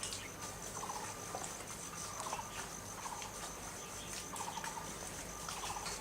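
Outdoor wildlife ambience: a short rattling call, a fast run of pulses, repeats about once a second over a steady thin high-pitched drone.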